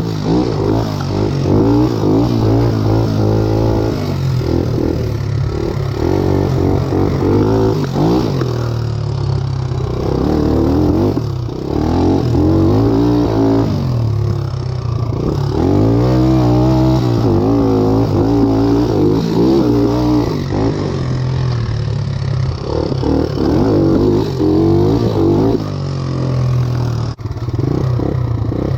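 Satoh S650G compact tractor's engine running under changing load, its pitch rising and falling again and again, with clattering from the machine.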